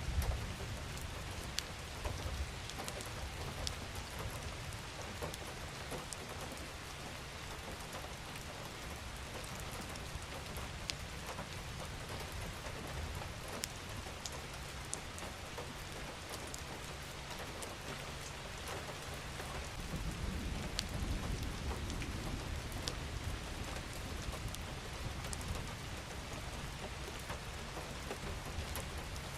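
Steady rain falling, with individual drops ticking on a surface. A low rumble swells about two-thirds of the way through.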